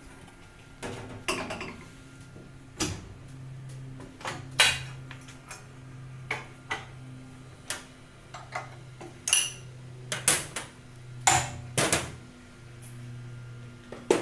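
Tool change on a Tormach PCNC 440 milling machine: irregular metal clinks and knocks as tool holders are handled and swapped, some ringing briefly, over a steady low hum.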